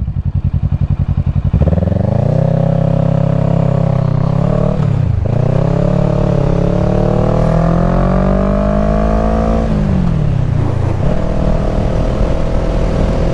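Kawasaki Ninja 650's parallel-twin engine under way. It pulses at low revs, then its pitch climbs with throttle, drops at a gear change about five seconds in and climbs again. It falls back near the ten-second mark as the throttle eases, then holds steady.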